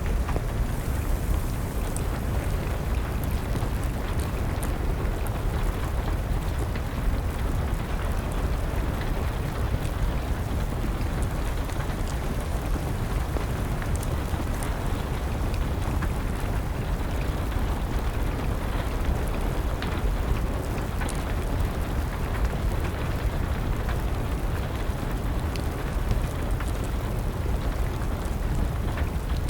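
Steady rain with a strong low rumble underneath and a few faint crackles from a wood fire scattered through it.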